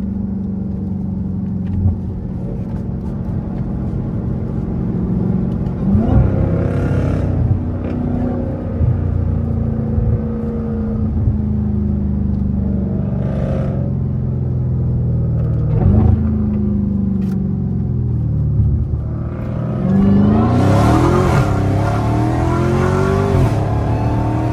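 Dodge Charger's Hemi V8 heard from inside the cabin, cruising with a steady drone and revving up three times as the driver gets on the throttle: briefly about a quarter of the way in, again about two-thirds in, and in a longer pull near the end, its pitch rising with the revs.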